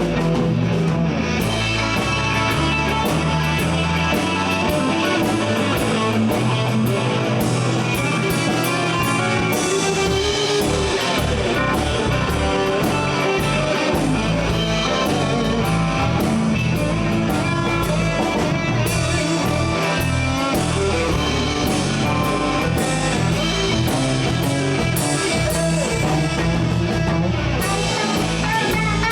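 Live blues band playing an instrumental passage: electric guitar over bass guitar and drum kit, with no singing.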